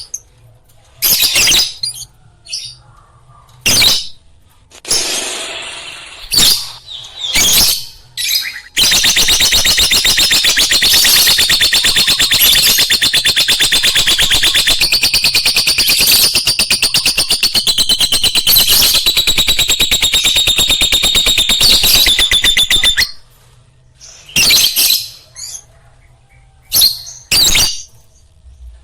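Lovebirds calling: separate shrill chirps, then about nine seconds in a long unbroken run of very fast chattering that goes on for some fourteen seconds before it breaks back into single chirps.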